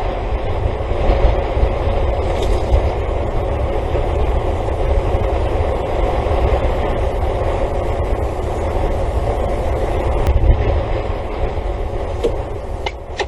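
Steady low rumbling noise that eases off near the end, with a couple of short, sharp sounds at the very end.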